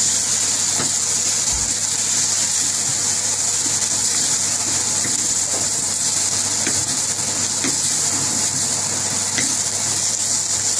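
Onions and ground spices frying in oil in a non-stick pan: a steady sizzle, with light scrapes and taps of a wooden spatula as they are stirred.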